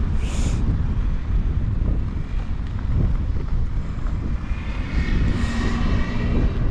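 Wind buffeting the microphone in a steady low rumble, with a brief high hiss just after the start and a faint whine in the last couple of seconds.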